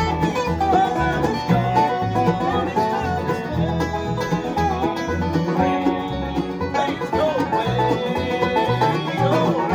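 Bluegrass music played on banjo and guitar over a low bass line, an instrumental passage without singing.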